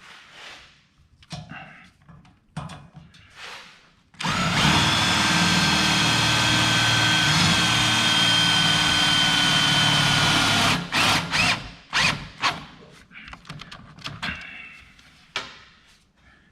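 Drill with a socket driving a self-drilling, self-tapping screw through the shelf into square tubing. It runs steadily for about six and a half seconds, its whine sagging slightly near the end, then gives a few short bursts as the screw seats. Light knocks of handling come before and after.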